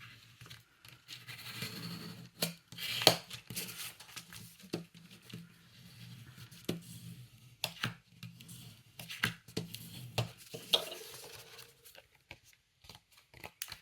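Paper handled and pressed down on a craft table: light rustling with scattered sharp taps and clicks, the loudest about three seconds in.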